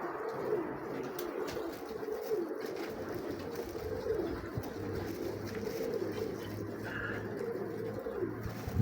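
Nikolaev pigeons cooing: a run of low, wavering coos, one after another.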